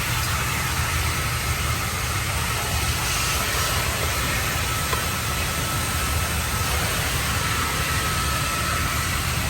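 Car wash vacuum running, a steady rushing suction noise with a faint steady whine.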